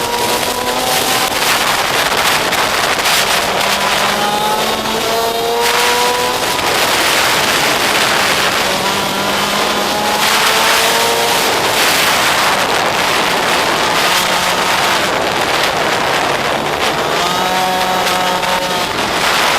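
Small pit bike engine running hard, its pitch climbing and dropping back every few seconds as it accelerates and eases off, over a steady rushing noise.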